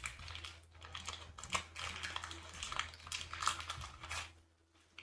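Irregular clicking, clattering and rustling of small machine parts and their packaging being handled, which dies down near the end.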